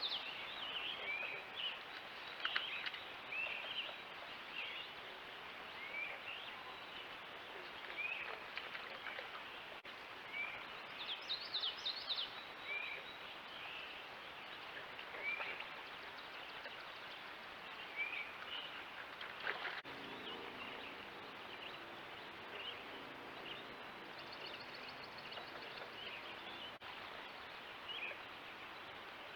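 Wild birds calling outdoors, with short downward-sliding chirps repeated every second or two over steady background hiss and a brief flurry of calls about a third of the way in. A faint low drone comes in about two-thirds through.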